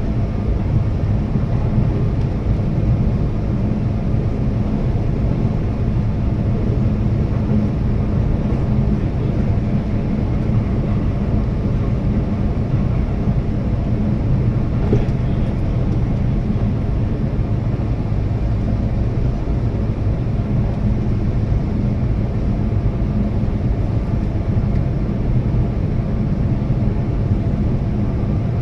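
Keihan Railway limited express electric train running steadily at speed, a constant low rumble of wheels on rail and running gear, heard from inside the front car.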